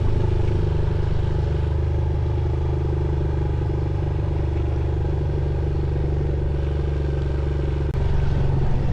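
Off-road motorcycle engine running at steady revs on a muddy trail, with one sharp knock near the end.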